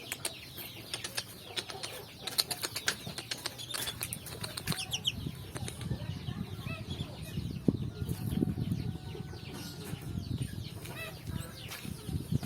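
Wandering whistling duck flapping and fluttering its wings in quick, sharp bursts, with a few short high falling calls.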